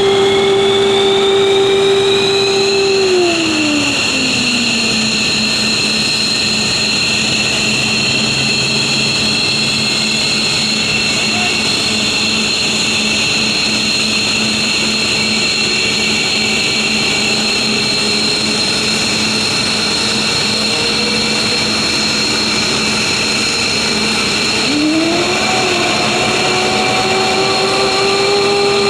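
F-15's twin F100 turbofan engines during start-up: a steady high turbine whine that climbs over the first few seconds and then holds. A lower tone drops away about three seconds in, and near the end new rising tones begin as another spool-up starts.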